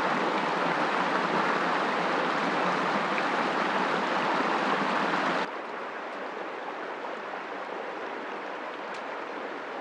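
Steady rushing noise of water. It drops suddenly to a quieter level about five and a half seconds in.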